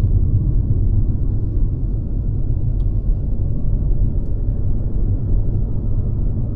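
Mercedes-Benz C-Class (W206) driving at a steady pace, a continuous low rumble of engine and road noise.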